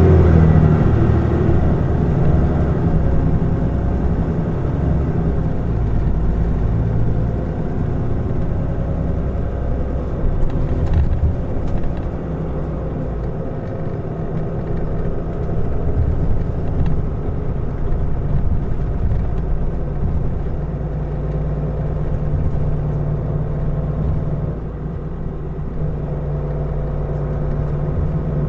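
Mitsubishi Fuso Aerostar city bus heard from inside the cabin: its diesel engine runs with a low rumble and pitch that wanders early on, then settles into a steadier, even tone for the last several seconds.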